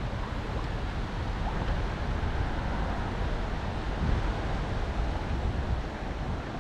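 Wind buffeting the microphone in low rumbling gusts over a steady rush of flowing river water.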